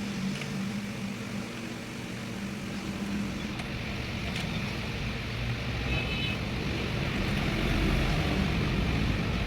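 Vehicle engine running steadily, its low hum growing louder over the last few seconds.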